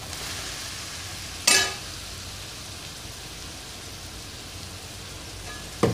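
Sliced onions sizzling steadily in hot oil in a wok as they are tipped in on top of frying ginger-garlic paste, with two sharp clanks, one about a second and a half in and one near the end.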